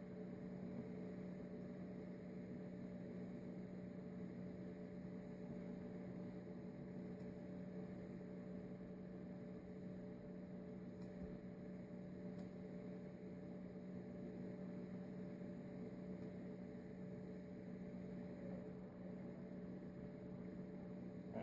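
Faint, steady electrical hum with a few constant tones, like mains hum; two faint ticks about halfway through.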